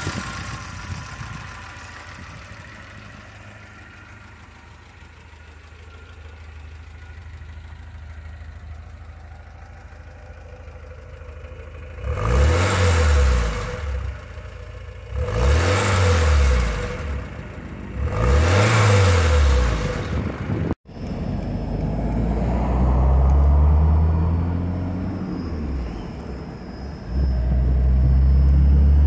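1991 Alfa Romeo Spider Veloce's 2.0-litre DOHC four-cylinder engine idling, then revved three times in quick blips that rise and fall. After an abrupt break it runs on, its pitch climbing and dropping several times.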